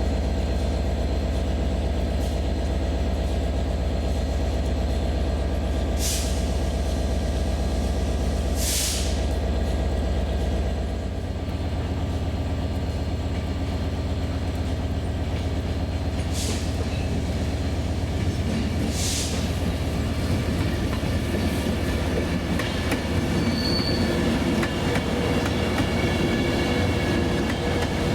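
Train at a station platform: a steady low engine drone with a slight change in its pitch partway through, broken by four short high-pitched bursts of squeal or hiss.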